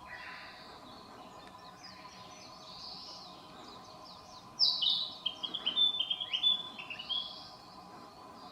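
Several forest songbirds singing. The loudest song starts about halfway through: a quick run of falling whistled notes, then a fast string of short repeated notes, lasting about three seconds.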